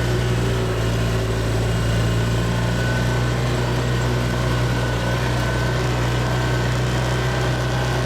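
Off-road vehicle engine idling steadily, a constant low hum.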